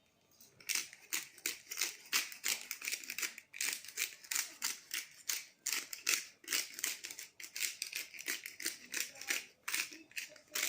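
Raw chicken pieces being seasoned by hand: a rapid run of short, crisp strokes, about three or four a second, starting about a second in.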